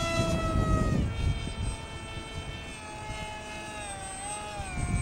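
High whine of a small electric RC foam jet's motor and propeller, its pitch sliding down about a second in and again near the end as the plane flies past, over wind rumble on the microphone.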